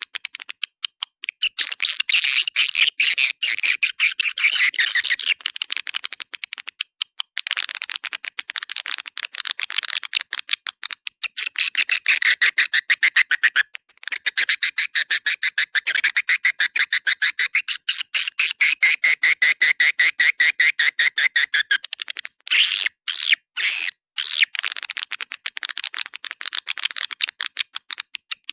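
Swiftlet lure call: a dense, rapid, high chirping and twittering of swiftlets, played as a calling sound to draw birds to a swiftlet house, with a few short breaks.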